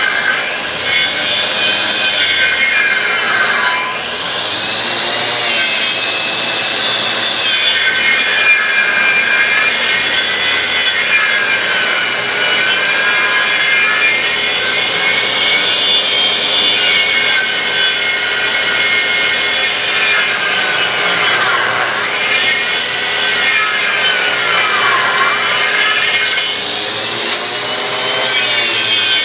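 Homemade copy lathe's power cutter machining a spinning wood blank, a steady loud cutting noise. Its motor whine dips in pitch and recovers several times as the cut takes hold.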